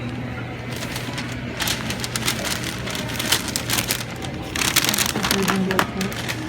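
Food packaging being handled and opened, crinkling and rustling in many quick crackles that grow busier, with a louder burst of crackling about five seconds in. A steady low hum runs beneath.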